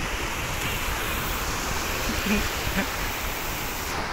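Sea surf: a steady rush of waves breaking and washing in.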